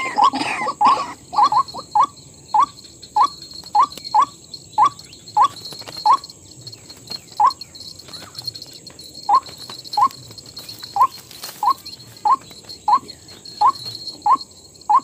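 White-breasted waterhen (dahuk) calling: a long series of short, single-note calls at about one to two per second, with a pause of a couple of seconds a little past the middle.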